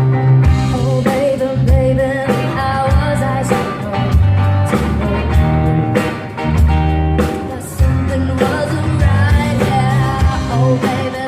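Live rock band playing with a singer: a sung melody over loud bass notes and a steady drum beat.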